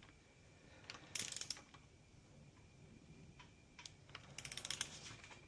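A torque wrench's ratchet head clicking in short runs while connecting-rod cap bolts are tightened toward 90 foot-pounds: a few clicks about a second in, then a quicker run of ticks near the end.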